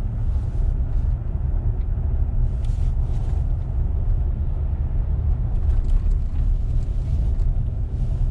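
Steady low rumble of a four-wheel-drive vehicle driving, road and engine noise heard from inside the cabin.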